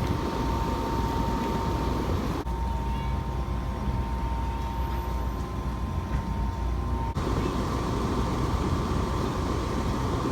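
Carrier air-conditioner condenser unit running with an intermittent hiss and faint whistle, which the owner takes for the pressure release valve venting. The hiss cuts out about two and a half seconds in and starts again about five seconds later, while the unit's low running noise carries on underneath.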